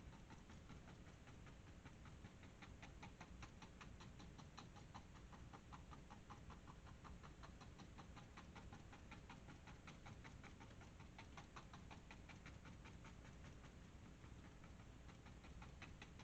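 Faint, rapid dabbing of a paintbrush loaded with paint on canvas, about four or five soft ticks a second.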